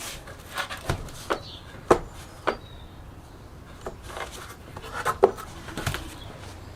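Irregular sharp clicks and light knocks, about a dozen spread unevenly, of small parts and tools being handled during hand work on a workbench.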